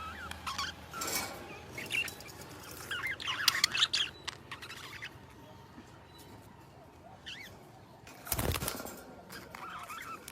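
Small birds chirping and calling in quick, irregular bursts, busiest and loudest a few seconds in. About eight seconds in there is a brief rushing noise, which may be wingbeats.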